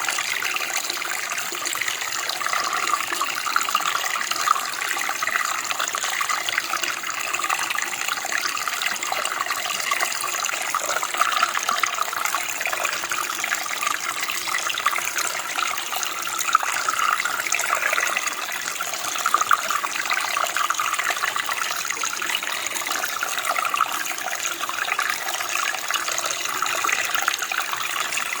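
Running water flowing steadily, an even splashing rush with its weight in the upper-middle range and little low rumble.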